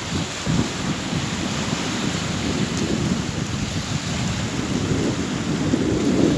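Sea waves washing ashore: a continuous surf rush with a low, churning rumble that swells a little near the end.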